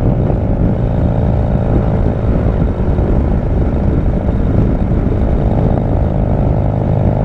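Harley-Davidson's V-twin engine running steadily as the motorcycle cruises at road speed, heard from on board.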